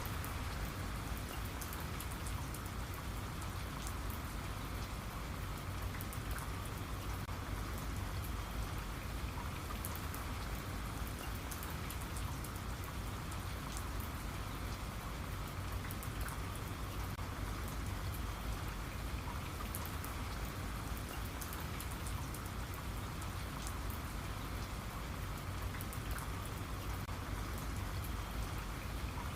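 Steady rain falling, with the fine patter of individual drops hitting a surface.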